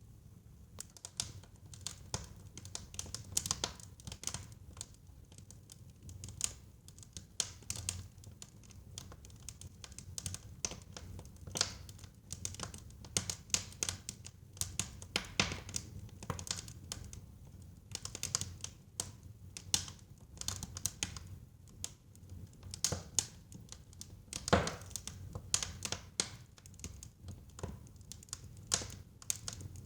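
Wood fire burning in a fireplace: irregular crackles and pops from the burning wood, several a second, over a low rumble of the flames, with one louder snap about twenty-four seconds in.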